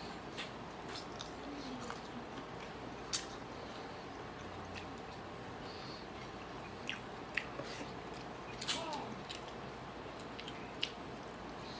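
A person eating grilled chicken with their hands: quiet chewing, with a few short, sharp clicks scattered through.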